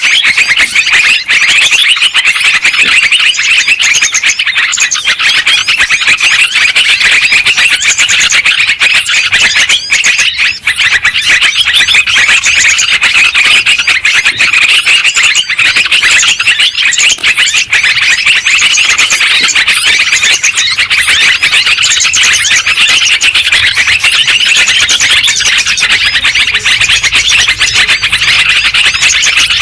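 Yellow-vented bulbuls calling noisily: a loud, dense, unbroken stream of quick chirps and short chattering phrases.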